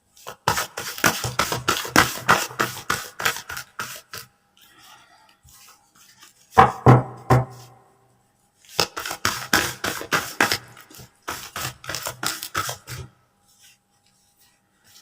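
Tarot cards being shuffled by hand: rapid runs of card flicks and taps, in three bursts with short pauses between.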